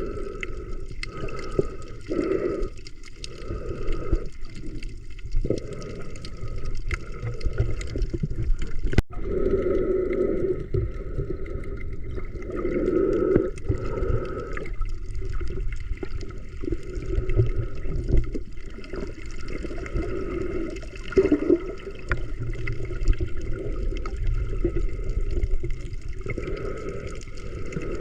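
Sea water sloshing and gurgling in uneven surges a second or two apart.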